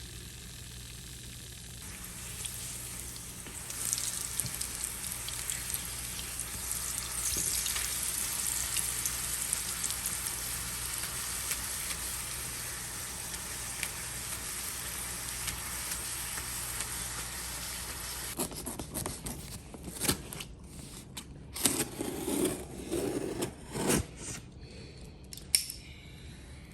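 Food sizzling in a frying pan, a steady hiss that grows a little louder a few seconds in. Near the end the hiss stops and gives way to irregular clicks and knocks of things being handled.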